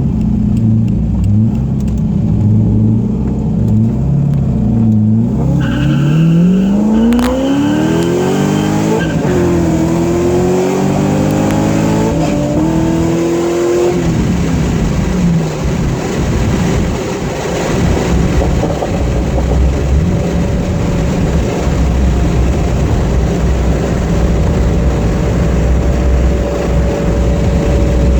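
Twin-turbo Chevrolet Corvette Z06 V8 idling, then accelerating hard with a rising pitch through three gears, with breaks at the shifts. About fourteen seconds in it lets off with a falling pitch and settles into a steady drone.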